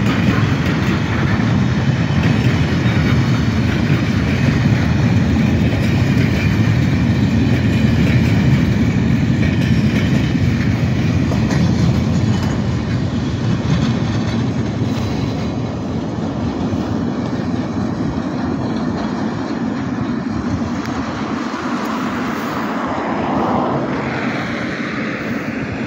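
Freight wagons (empty flat wagons, then covered sliding-wall wagons) rolling past on the rails, their wheels making a steady low rumble. The sound is strongest in the first half, eases off after about twelve seconds and fades away near the end as the tail of the train goes by.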